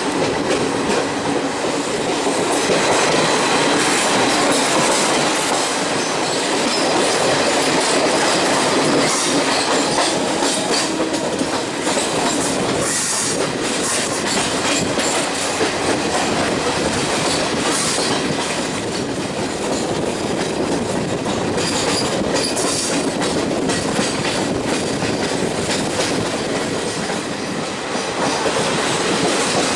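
Express passenger train running steadily, heard from an open coach door: wheels clattering on the rails under a continuous rumble.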